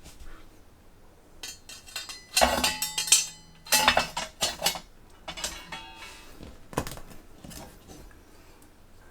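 Mill-scale black steel plates of a flat-pack fire pit knocking and clinking together as the legs and side plates are slotted into place, with short metallic ringing after the louder knocks. The loudest clanks come in the middle, then they thin out to lighter taps.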